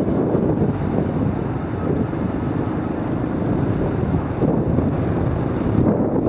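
Wind rushing over the microphone while riding a Honda XR250 dirt bike, with its single-cylinder four-stroke engine running underneath, steady throughout.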